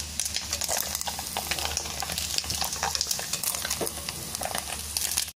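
Dried anchovies sizzling as they deep-fry in hot oil in a metal pan, with scattered small clicks and scrapes of a utensil stirring them against the pan.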